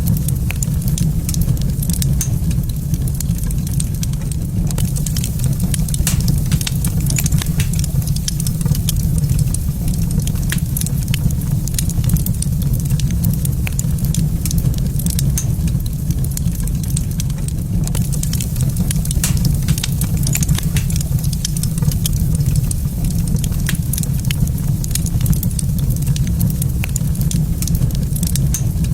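Wood fire burning in a fireplace, crackling with frequent small sharp pops over a steady low rumble.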